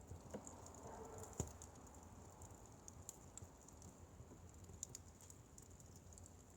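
Wood fire crackling faintly: scattered small irregular ticks, with one sharper pop about a second and a half in.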